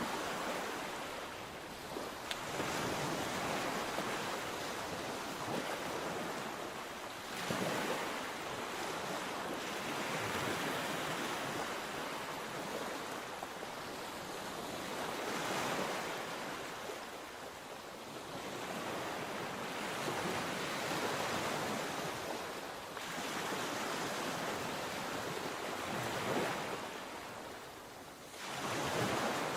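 Sea waves breaking and washing up on the shore in a continuous rush that swells and ebbs every few seconds, with a few sharper breaks, one near the end. Some wind buffets the microphone.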